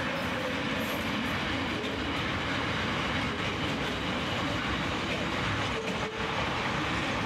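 Container freight train's wagons rolling past at speed: a steady rumble of wheels on rail, with a few sharp wheel clicks about six seconds in.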